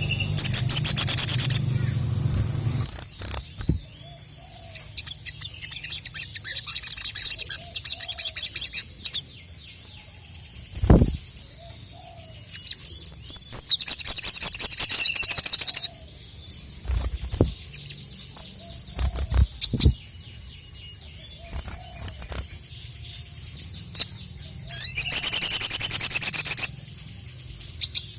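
Sogok ontong (sogon) sunbird singing: four bursts of very fast, high trilling, each a second or more long, with short high chirps between, in the full, loud song kept birds are bred for. A few low thumps fall between the bursts.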